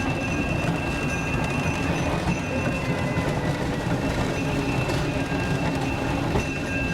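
Steady low mechanical rumble with a thin, constant high whine over it.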